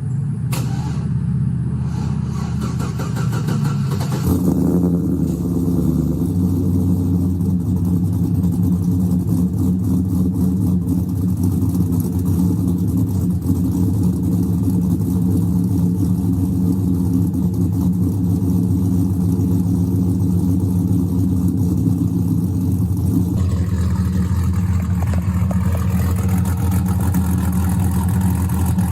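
GM 5.3L LS V8 with a Texas Speed CHOPacabra aftermarket camshaft running at a higher speed for the first four seconds, then settling to a steady, choppy idle. The choppy idle is the cam's lope.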